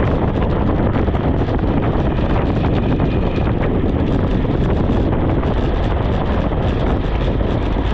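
Steady, loud wind noise buffeting the microphone of a camera on a bicycle moving fast downhill.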